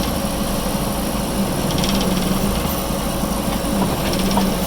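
Backhoe engine running steadily while it works to shift a dozer. A brief, fast high-pitched rattle comes and goes twice over it.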